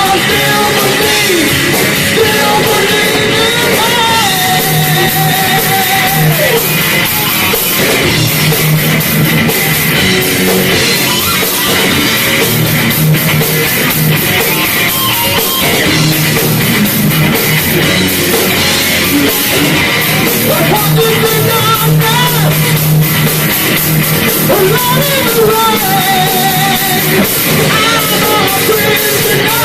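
Live heavy metal band playing loudly and without a break: electric guitars, bass and drum kit.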